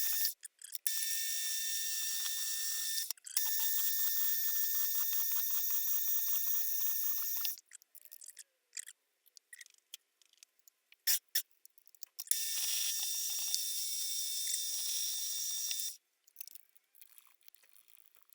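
Metalworking machine spindle running with a steady whine, in three stretches of a few seconds each, drilling small holes in a 304 stainless steel part. Short clicks and knocks of handling come between the runs.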